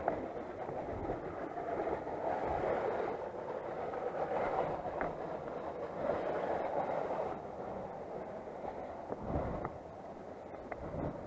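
Motoland XR 250 single-cylinder four-stroke dirt bike riding on a rough trail: a steady rumble of engine and wind noise that swells and eases, with a few short knocks and rattles.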